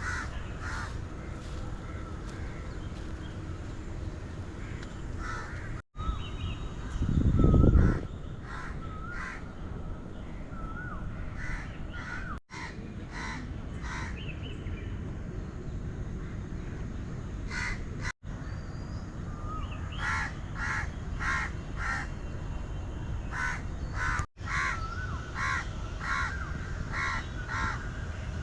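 Birds calling outdoors in runs of short, repeated calls, busiest in the second half, over a steady outdoor background. A brief low rumble about seven seconds in, the loudest moment.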